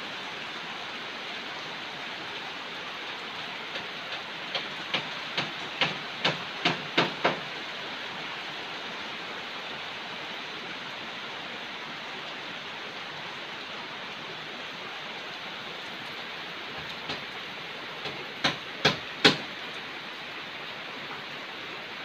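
Heavy rain falling steadily with an even hiss. Two runs of sharp taps cut through it: about ten quickening, growing louder, a few seconds in, and about five more near the end.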